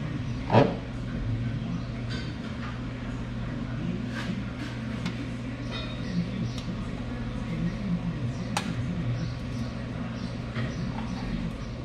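A steady low hum with scattered knocks and clatter; one sharp, loud knock comes about half a second in.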